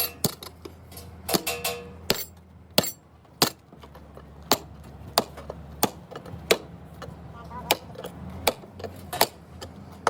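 Repeated hammer blows on metal, sharp single strikes coming steadily about every two-thirds of a second, with a brief ringing near the start.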